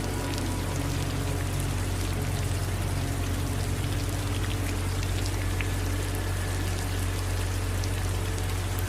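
Steady rain falling: an even hiss of drops with a low rumble beneath.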